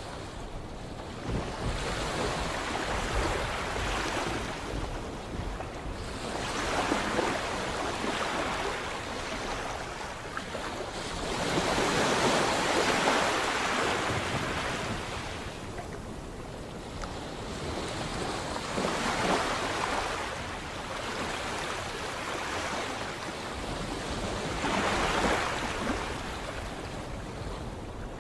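Sea waves breaking and washing ashore, the surf rising into a louder surge and falling back every few seconds, about five times.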